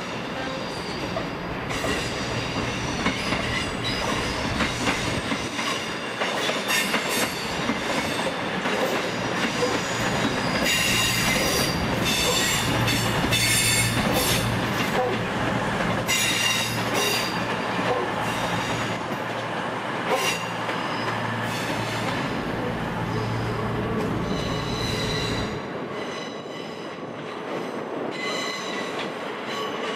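Train moving slowly through the station, its wheels squealing on the curves in repeated high-pitched bursts, loudest about halfway through, over a steady low hum that stops about four seconds before the end.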